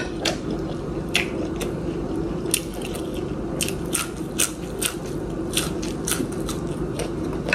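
Close-miked eating sounds: a mouthful of soup, then biting into and chewing a fresh green chili, giving a string of sharp wet clicks at uneven intervals over a steady low hum.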